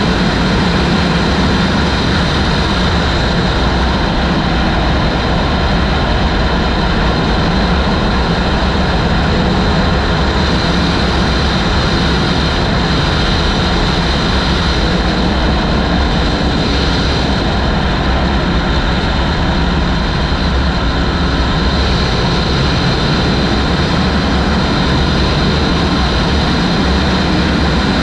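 Heavy wind noise rushing over the microphone of a moving motorcycle, loud and steady, with the bike's engine running underneath.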